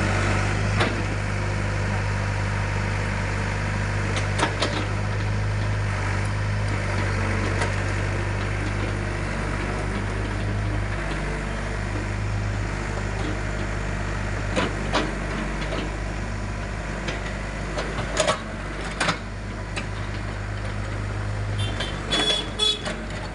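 Excavator's diesel engine running steadily with a deep hum, with a few short sharp knocks and clanks from the machine at work scattered through.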